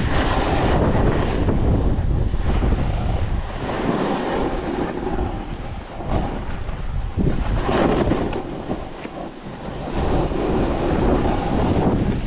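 Wind buffeting the camera's microphone in gusts, a loud rumbling rush that eases briefly a few times before picking up again.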